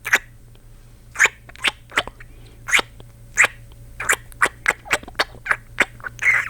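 A man's close-miked ASMR kissing sounds: a string of short smacking kisses, about fourteen, coming quicker from about four seconds in.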